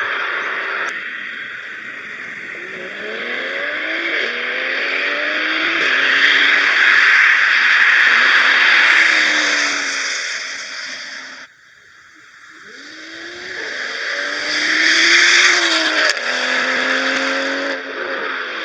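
BMW M340i's turbocharged straight-six on an MHD Stage 2 tune, accelerating hard through the gears, its pitch climbing and falling back at each upshift, under loud wind and tyre noise. About halfway through, the sound cuts off suddenly, then a second hard pull builds up through the gears.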